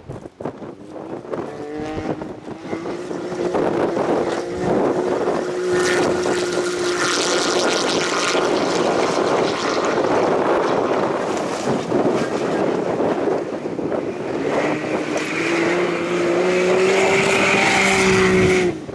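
Off-road rally car engine running hard on a stage, its pitch climbing under acceleration in two long pulls, over rough tyre and gravel noise; the sound cuts off abruptly at the end.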